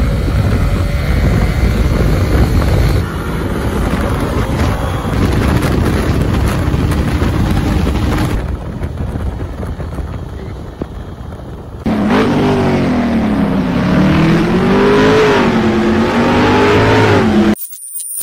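KTM Duke 200's single-cylinder engine ridden hard, with heavy wind rush over the onboard microphone. It goes quieter for a few seconds, then the engine note rises and falls repeatedly through revs and gear changes, before cutting off suddenly near the end.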